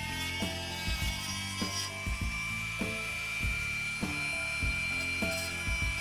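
A power tool's motor whining steadily at a high pitch while it cuts wood, with background music carrying a regular beat of low notes.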